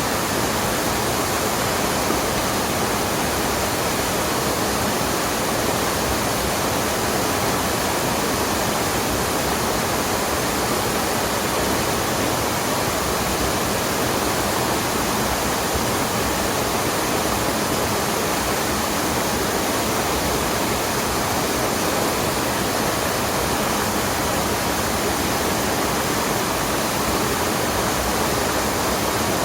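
Mountain stream water rushing over a waterfall: a steady, unbroken rush of falling water.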